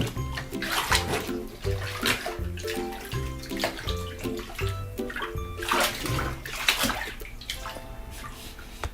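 Water sloshing and splashing in a bathtub as a heavy bed cover is washed in it, in repeated surges, over background music with steady held notes.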